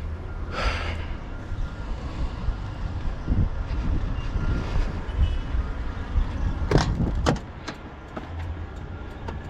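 Semi truck's diesel engine running with a steady low drone heard from inside the cab. A short hiss comes about half a second in, and two sharp clicks about half a second apart follow near seven seconds in.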